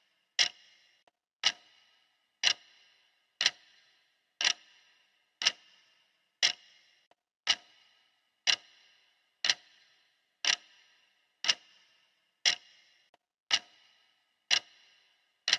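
Clock ticking steadily, one sharp tick each second, each tick with a brief ringing tail.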